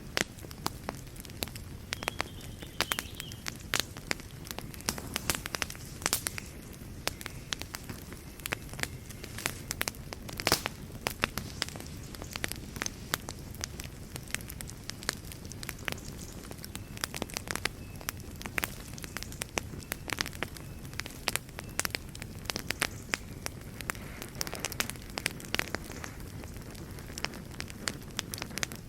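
Wood fire burning in a fireplace, with a steady low rumble of flames and frequent sharp crackles and pops, several a second.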